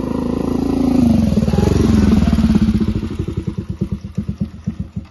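Motorcycle engine running, dropping in pitch as it slows to a lumpy idle, its firing beats spreading out until it is switched off near the end.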